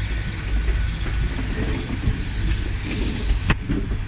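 Steady low rumble of a Class 800 train at the platform, with a single sharp click about three and a half seconds in.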